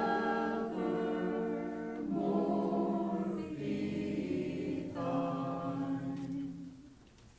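A group of voices singing a hymn in long held notes; the singing ends a little before the end.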